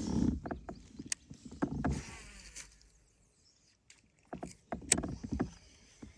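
Scattered knocks and clicks with light water noise from a fishing kayak, coming in a cluster in the first couple of seconds and another a little after the middle, with a lull between.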